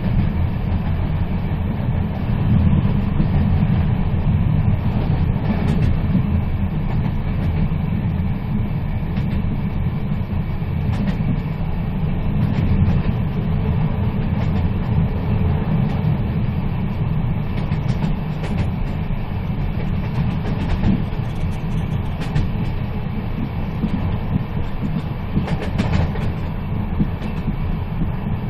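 A moving train, heard as a steady low rumble with faint scattered rattles and clicks from the wheels on the track.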